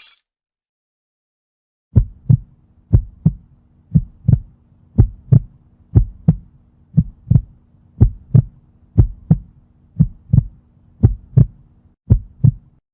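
Heartbeat sound effect: a steady lub-dub of paired low thumps, about one beat a second, over a faint low hum. It starts about two seconds in and runs for about eleven beats.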